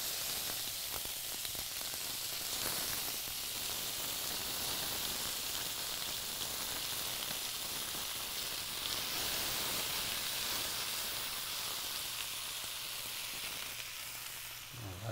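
Spice-coated chicken pieces with onion and tomato sizzling as they go into a hot stainless steel frying pan: a steady frying hiss with a few faint clicks.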